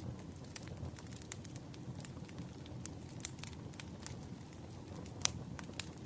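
Burning firewood crackling, with irregular sharp pops over a low steady rumble; the loudest pop comes about five seconds in.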